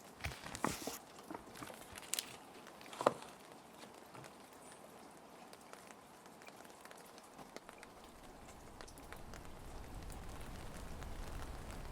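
Plastic sheet protectors crinkling and clicking a few times in the first three seconds, the loudest click about three seconds in, over a steady patter of rain. The rain grows a little louder toward the end.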